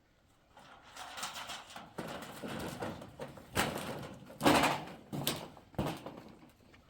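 A series of irregular knocks and thuds, about five strikes at uneven spacing, the loudest about halfway through.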